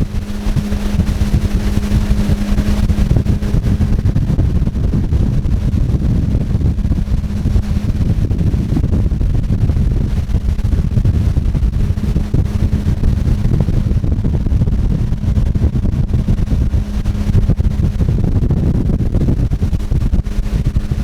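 Motor vehicle engine running steadily with a constant hum, under a loud rumble of wind and motion noise.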